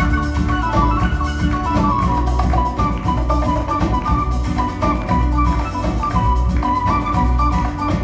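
Instrumental band music: a fast melody of short, quick notes over a steady bass line and drums.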